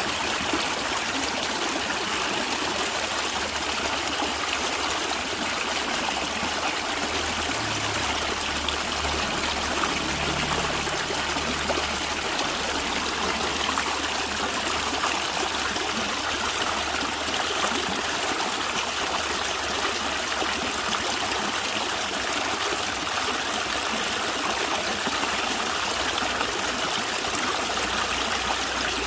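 Natural running water, gurgling steadily.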